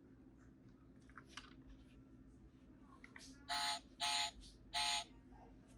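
Three short electric buzzes, each under half a second, from the restored toy model car's electrics being switched on and tested, with a few faint ticks before them.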